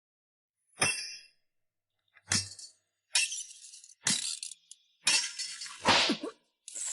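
A string of shuriken sound effects: about six short metallic clinks and hits, each starting sharply and separated by silence, with a longer one near the end.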